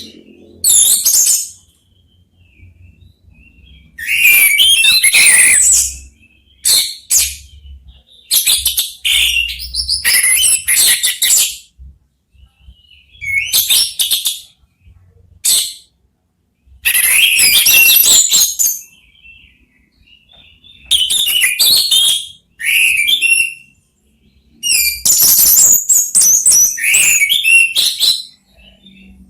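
Orange-headed thrushes singing in turn: about a dozen loud, high, varied bursts of song, each a second or two long, with short pauses between.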